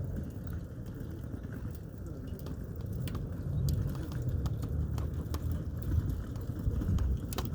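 Wood campfire burning down, crackling with scattered sharp pops over a steady low rumble.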